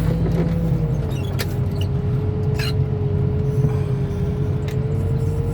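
Heavy diesel engine of car-crushing equipment running steadily, with a steady whine over the low drone and a few faint clicks.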